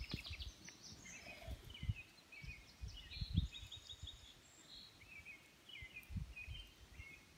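Songbirds chirping and singing in short repeated phrases, over irregular low thumps and rumbles.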